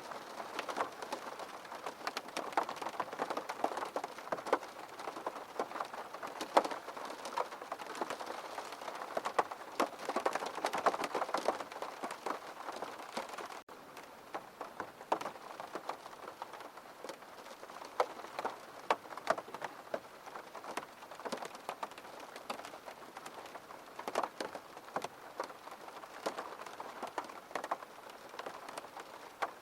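Rain falling steadily, a dense patter of individual drops striking a surface. It is heavier in the first half and eases a little after about fourteen seconds.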